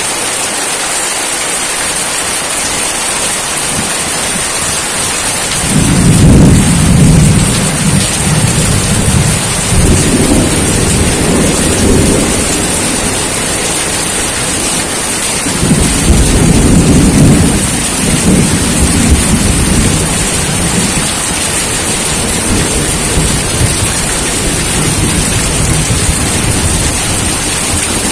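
Steady rain with rolling thunder: a long low rumble starts about six seconds in, and a second one about fifteen seconds in.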